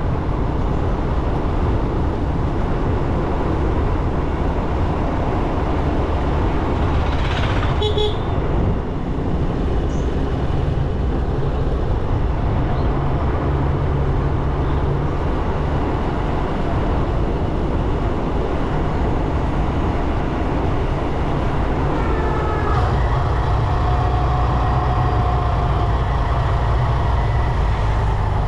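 Motorcycle riding on a road: the engine running steadily under wind and road noise, with a brief horn toot about eight seconds in.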